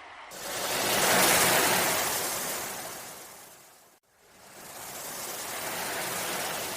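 Ocean waves washing in: two swells of surf. The first builds quickly, is loudest about a second in and dies away. It breaks off abruptly about four seconds in, and a second wave then rises and slowly fades.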